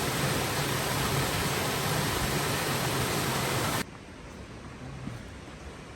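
Steady roar of a large waterfall, a dense rush of falling water; a little under four seconds in it drops abruptly to a quieter, softer rush.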